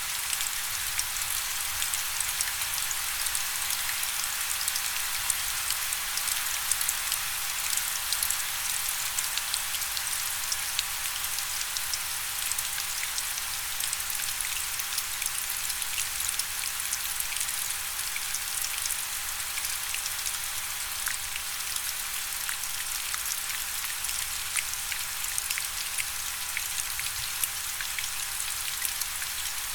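Steady rainfall, a dense hiss of many small drop impacts ticking on a surface.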